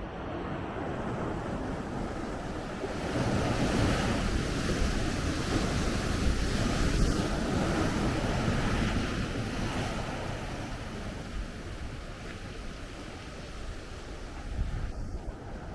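Heavy ocean surf: a big wave breaks about three seconds in, its roar holding for several seconds and then easing off as it washes back. Wind buffets the microphone throughout.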